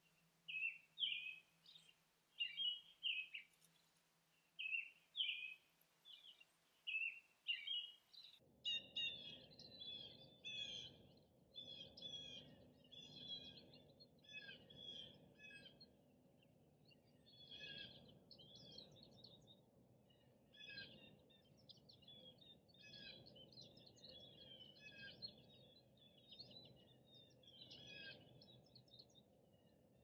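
Wild birds calling: a single call repeated about once a second for the first eight seconds, then a busier chorus of songbird notes over a steady low rushing background.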